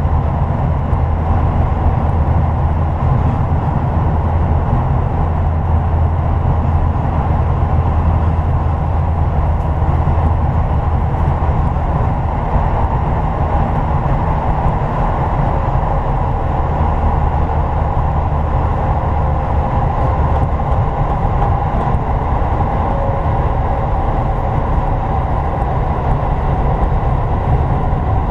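Toei 10-300 series electric train running between stations, a steady rumble of wheels and running gear heard from inside the car.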